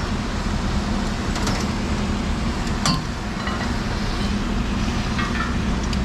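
Steady engine rumble of construction machinery, with a few short metallic clinks of steel parts and bolts.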